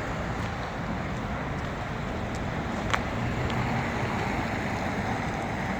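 Steady city street traffic noise, with a single sharp click about three seconds in.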